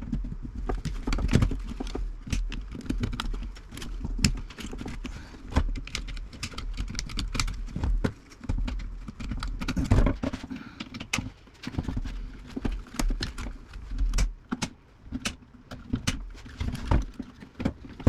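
Hand wire cutters snipping through the wiring inside an old tube radio chassis: many irregular sharp clicks and snips, several a second, with metal parts clattering in between.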